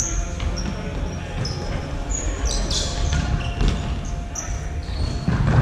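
Dodgeball play on an indoor court: rubber balls bouncing and thudding, with many short, high sneaker squeaks on the hall floor. Near the end, shouting and cheering from the players and crowd swell up.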